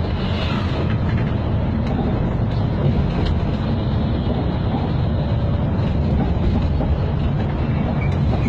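Moving bus: its engine and road noise make a steady, loud low rumble that holds without a break.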